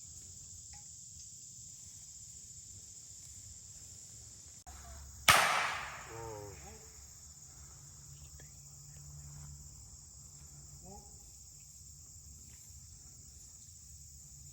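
A single sharp blank pistol shot about five seconds in, dying away over about a second, over steady high insect buzzing.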